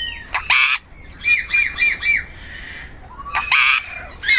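Parrots squawking: a harsh squawk about half a second in, a quick run of four short rising-and-falling calls, then another harsh squawk about three and a half seconds in.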